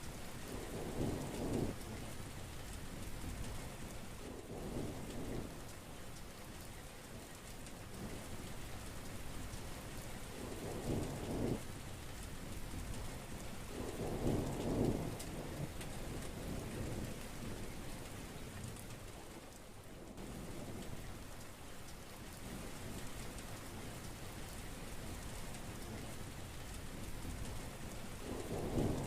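Heavy rain falling steadily, with about five short, low rumbles of thunder spread across the stretch.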